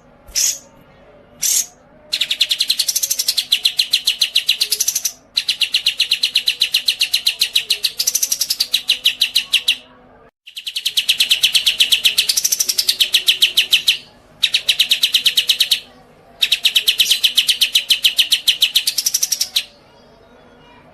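A songbird singing: a few short chirps, then long, fast trills of rapidly repeated notes in phrases of two to four seconds with short pauses between. Each trill holds a steady pitch with a brief swoop up and back down.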